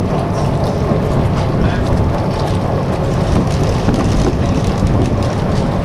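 Canal tour boat under way: the engine runs steadily beneath wind buffeting the microphone.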